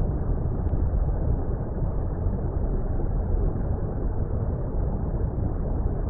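Steady, deep water rumble, an even muffled noise like the sound heard underwater, with nothing high-pitched in it.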